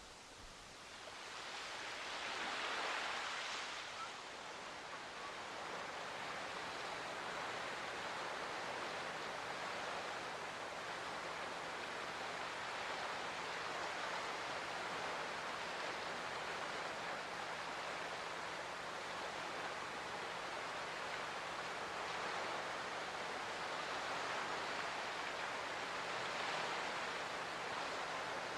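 Steady rushing of water, swelling about two seconds in and then holding even.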